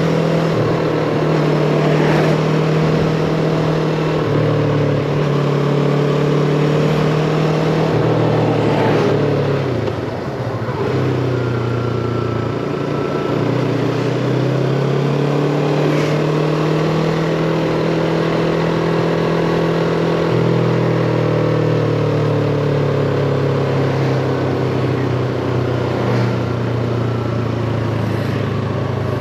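Yamaha MT-25's 250 cc parallel-twin engine running on the move, its pitch rising and falling with throttle and gear changes. About ten seconds in it briefly drops off, then pulls up again.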